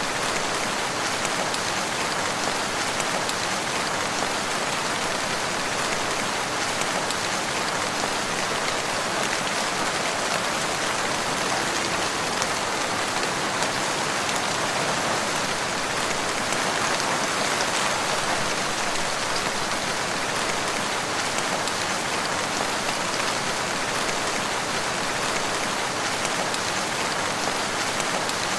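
Steady rain falling, a continuous even hiss with fine pattering drops.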